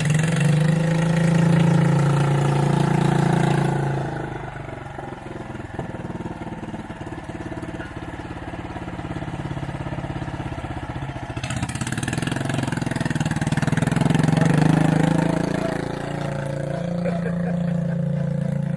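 John Deere 210 garden tractor's engine running on a drive, its pitch rising and falling; it is loud for the first few seconds, quieter in the middle, and loud again around fourteen seconds in.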